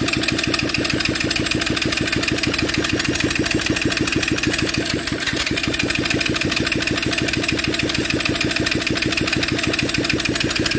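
Bajaj Discover 135 single-cylinder motorcycle engine idling steadily with rapid, even firing pulses. This engine's sound the owner finds bad and rough, and a bent crankshaft is blamed for it.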